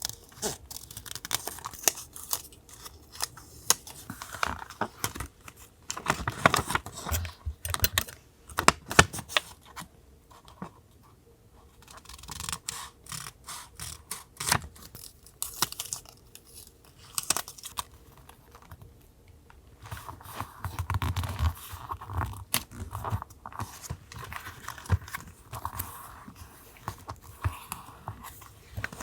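Paper and stickers being handled for a journal collage: tearing, crinkling and rustling of paper, with many sharp little clicks and taps, in irregular bursts and a couple of quieter pauses.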